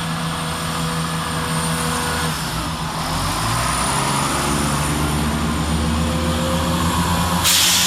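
Class 170 Turbostar diesel multiple unit pulling away, its underfloor diesel engines running under load with a steady note that shifts upward about three seconds in. A loud hiss starts near the end.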